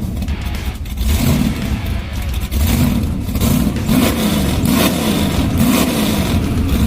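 A car engine revving again and again, its pitch rising and falling several times.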